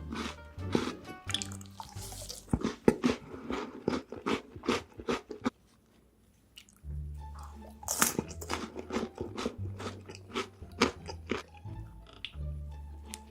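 Close-miked crunching and chewing of food in big mouthfuls, over background music with a low bass line. The sound cuts out for about a second a little past the middle, then the chewing and music resume.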